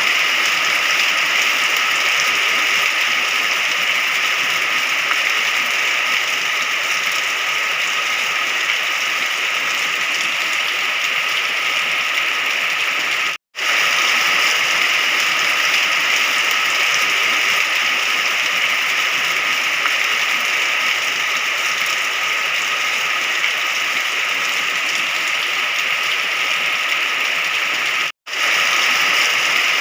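Steady rain, an even hiss. It drops out to silence for a split second twice, about halfway through and near the end.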